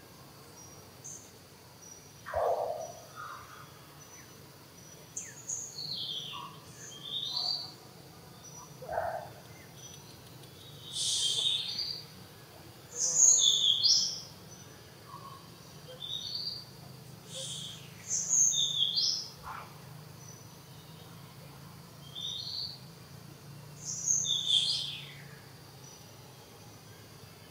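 Wild birds calling: short high chirping phrases repeat every second or two, with a few lower calls in between, over a faint steady insect drone.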